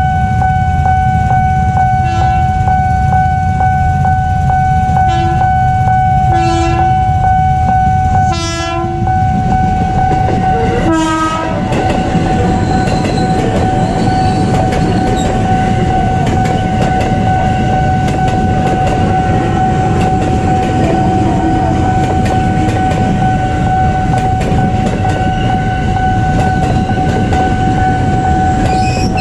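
KRL Jabodetabek electric commuter trains passing a level crossing: a train horn sounds five times in the first eleven seconds, the later blasts longer, then the wheels rumble and clatter over the rails as two trains go by in turn. A steady warning tone from the crossing signal sounds underneath.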